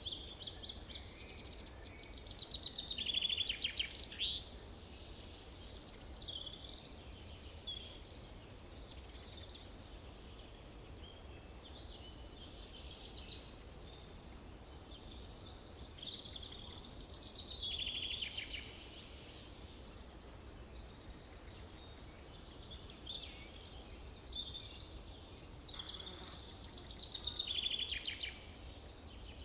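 Forest birdsong: several songbirds singing at once, with overlapping chirps, whistles and fast trills. The loudest trills come about three seconds in, around the middle and near the end, over a faint steady low rumble.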